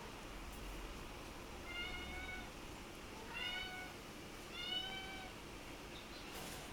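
Young Munchkin kitten meowing three times, short high-pitched mews about a second and a half apart.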